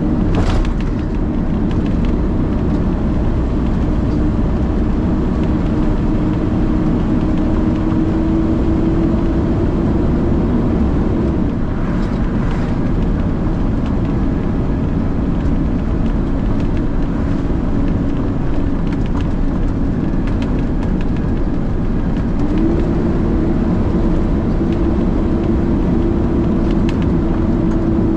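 Peterbilt truck's diesel engine running under way, heard from inside the cab as a steady drone. Its pitch drops a little about a third of the way in and comes back up near the end, and there is a short click right at the start.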